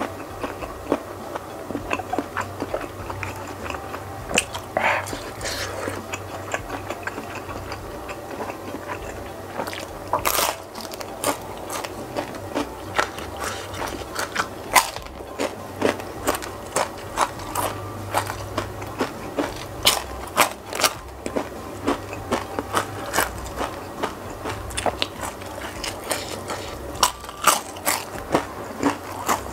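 Close-miked eating: a mouth biting and chewing crispy fried snacks and raw green bird's eye chilies. It is softer chewing at first, then from about ten seconds in a dense run of crisp crunches.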